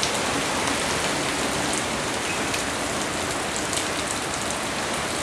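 Heavy rain pouring down steadily in a storm: an even hiss with faint scattered drop ticks.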